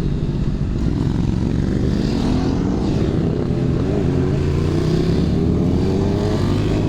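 Honda CBR600RR inline-four engine running while riding, with a steady rush of wind on the microphone; the engine note rises gently in the second half.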